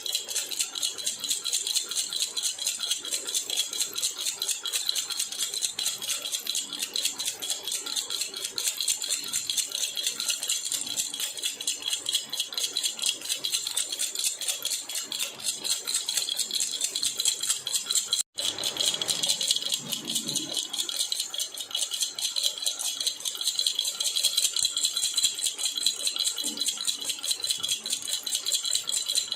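Baby rattle (jhunjhuna) shaken continuously, a fast steady jingling with a momentary break about eighteen seconds in.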